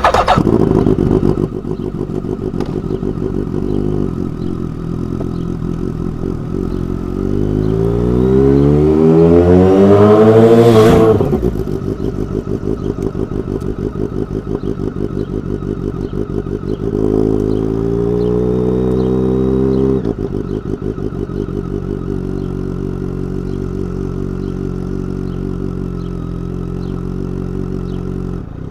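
BMW K1200R inline-four engine running through a Dekevic 8-inch stainless muffler, with the exhaust note climbing twice under acceleration: a long rise that peaks and drops off sharply about eleven seconds in, and a shorter one about seventeen to twenty seconds in, before settling back to steadier running.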